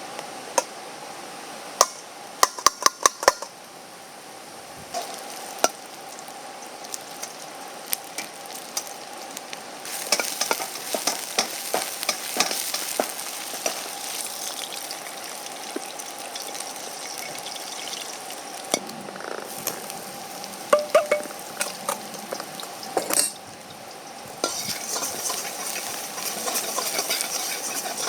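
Food sizzling as it is stir-fried in a Chinese wok over a campfire, with a utensil clinking and scraping against the wok. Near the start there is a quick run of sharp metal clinks, and the sizzling grows louder about ten seconds in and again near the end.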